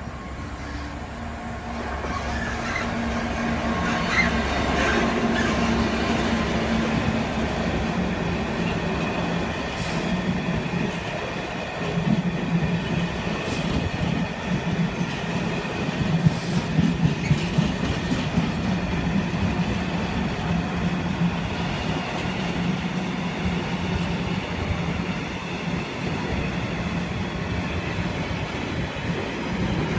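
British Rail Class 66 diesel freight locomotive, with its two-stroke EMD V12 engine, drawing near and passing, its engine hum dropping a little in pitch as it goes by. It is followed by a long train of container wagons rolling past, their wheels knocking over the rail joints.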